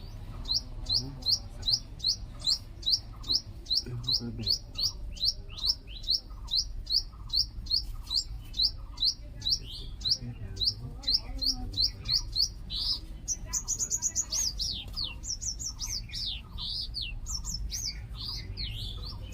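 Small bird chirping rapidly and insistently, short high notes about three a second. Past the middle, the calling turns more varied, with sweeping and falling notes added.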